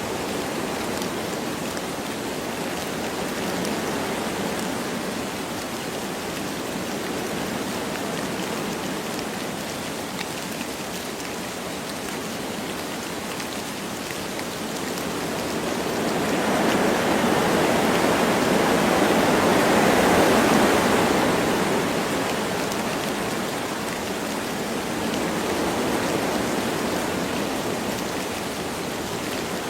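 Wind blowing through forest trees with light rain falling, a steady rushing hiss. A stronger gust swells up a little past the middle and dies back down.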